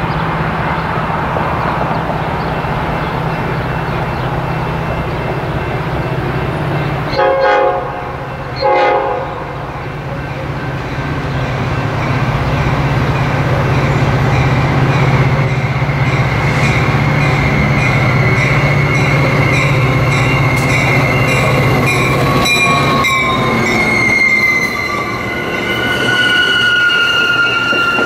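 Approaching commuter train with bilevel passenger cars: two short horn blasts about 7 and 9 seconds in over a steady low drone, then high squealing from the wheels as the cars roll past the platform in the last few seconds.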